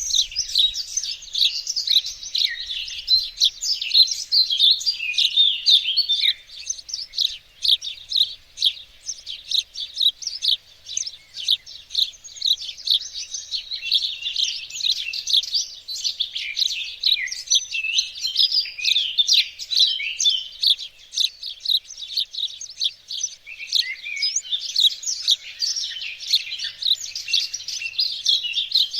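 Small songbirds singing and chirping continuously, dense overlapping high twitters and trills.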